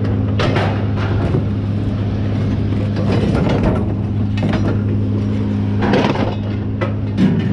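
An engine running steadily with repeated metal clanks and rattles of scrap metal being handled.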